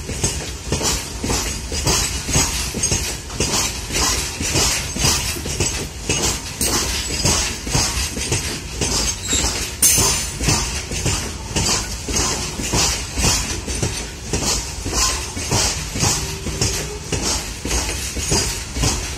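Loaded open freight wagons rolling past on the near track, their wheels clacking over rail joints in a steady repeating rhythm, with one sharper clank about ten seconds in.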